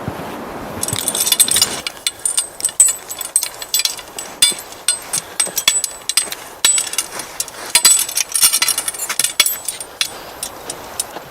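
A dense, irregular run of sharp clicks and clinks.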